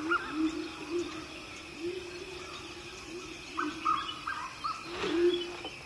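Forest birds calling: one bird repeats a low hooting note two to three times a second while other birds give short higher chirps, over a steady high insect drone.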